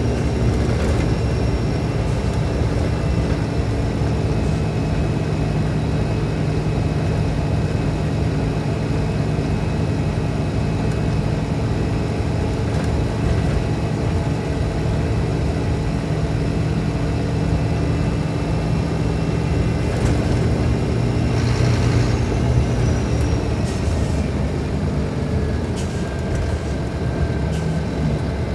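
Scania K310IB bus's rear-mounted five-cylinder diesel engine running steadily. A short hiss comes about twenty-two seconds in, and the engine note eases down slightly near the end.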